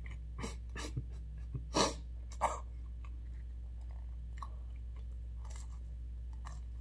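Close-up chewing of a mouthful of pizza: a handful of sharp mouth clicks and crunches in the first two and a half seconds, the loudest about two seconds in, then a few faint ones. A steady low hum runs underneath.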